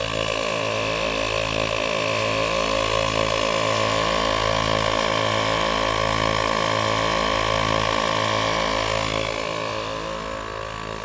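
ARB dual air compressor running steadily at a constant pitch while it pumps up a tire. It grows somewhat quieter about nine seconds in.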